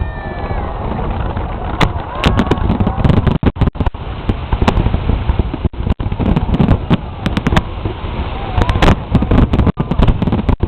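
Fireworks going off: a dense run of aerial shell bangs and crackles over a continuous low rumble, several sharp reports standing out.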